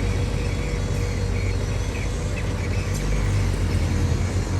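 Heavy-equipment diesel engine running steadily with a low, even rumble.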